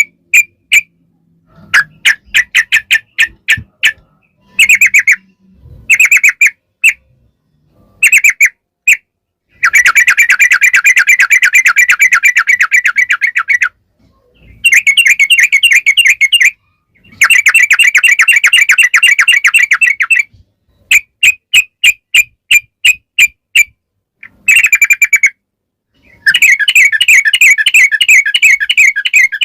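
Yellow-vented bulbul (trucukan) singing loudly: short series of separate clear notes, broken by several long, rapid rolling runs of repeated notes lasting two to four seconds each.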